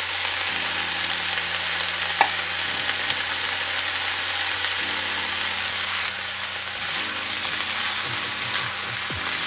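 Rice and vegetables sizzling as they fry in a hot oiled pot: a steady hiss, with one sharp knock about two seconds in.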